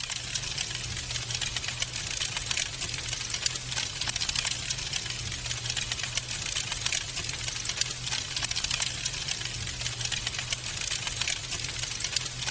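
Wood fire crackling in a fireplace: dense, irregular pops and snaps over a steady low hum.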